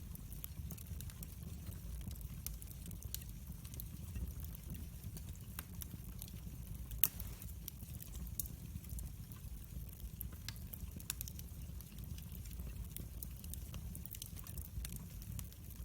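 Wood fire burning in a fireplace: a steady low rumble with irregular small crackles and pops throughout, and one sharper snap about seven seconds in.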